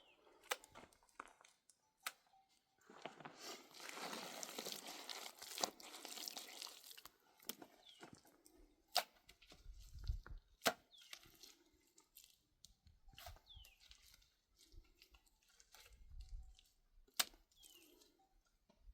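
Rustling, tearing handling noise for a few seconds, then scattered sharp clicks and knocks, with a few short bird-like chirps.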